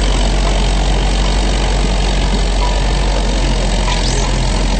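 Farm tractor's engine running loud and steady at a tractor pull, with no change in pitch.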